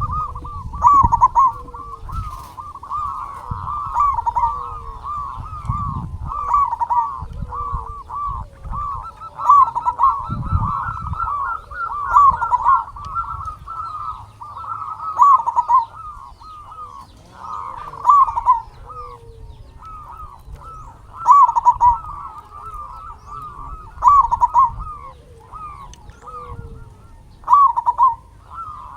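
Zebra dove (perkutut) song: quick phrases of short cooing notes repeated without pause, with louder phrases every two to three seconds and a low rumble underneath at times.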